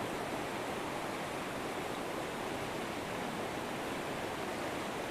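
River water flowing over rocks, a steady rushing with no change.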